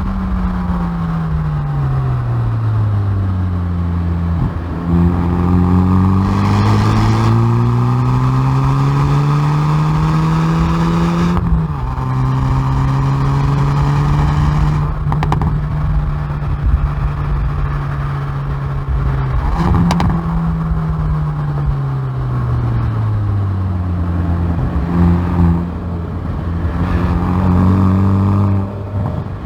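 Hyundai i30N Performance's turbocharged four-cylinder engine and exhaust at track speed, heard from the rear bumper. The engine note falls at the start, climbs under acceleration to a gear change about eleven seconds in, and holds steady for several seconds. It then falls again and climbs in short steps with quick gear changes near the end.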